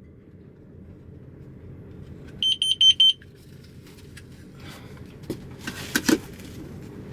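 A detector alarm beeping four times in quick succession, high-pitched, over a steady low background noise; a few clicks and rustles follow near the end.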